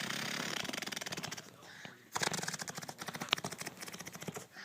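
A small child blowing raspberries, buzzing the lips in rapid flapping toots, two long stretches with a short pause between them a little past one second in.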